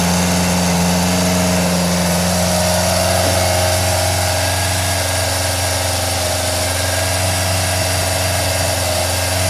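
Suzuki GSX-R400 GK71B motorcycle's inline-four engine idling steadily through its exhaust muffler.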